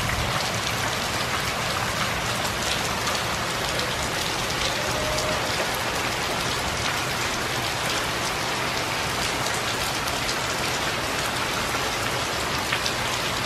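Heavy hurricane rain pouring down steadily, an even hiss of rain falling on surfaces.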